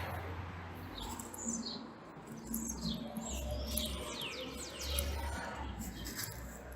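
Small birds chirping: a string of quick, high chirps that sweep down in pitch, clustered in the middle stretch, over a low rumble.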